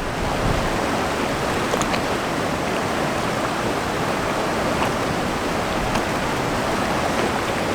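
Steady rush of river whitewater rapids.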